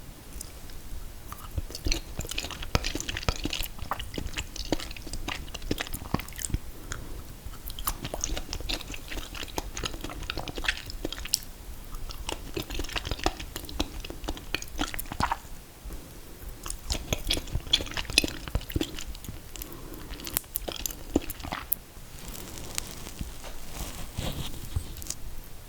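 Close-up eating of a mint chocolate chip and confetti cake ice cream cake: bites and chewing with crisp, crunchy clicks. It comes in several bouts with short pauses between them.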